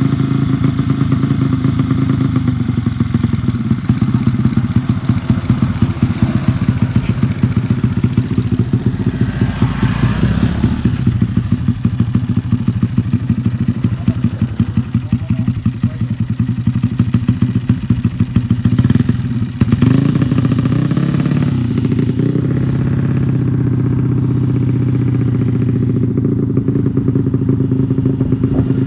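Single-cylinder four-stroke engine of a Honda C70 motorcycle built up to 180cc, running with a fast, even pulse. About two-thirds of the way through the note shifts, then holds steady and smoother.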